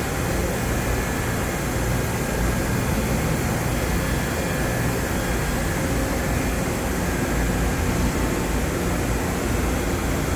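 Okuma MILLAC 852V vertical machining center running with its Y-axis traversing in manual mode: a steady, even mechanical hum with a faint high tone, quiet on the screws with no grinding or knocking.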